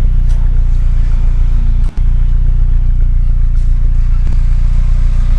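Truck engine running steadily at a low, even drone, dropping out for an instant about two seconds in.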